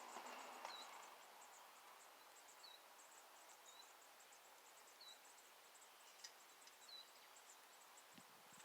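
Faint outdoor ambience at a bird feeder: short, high single bird chirps every second or two, about five in all, over a steady faint high-pitched ticking and hiss.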